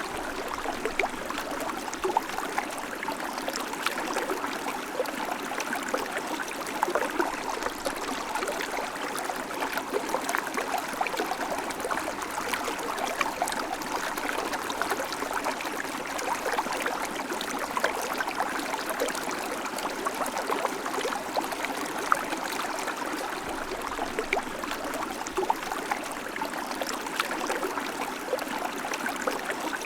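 River flowing steadily over stones: an even rushing with many small splashes and gurgles.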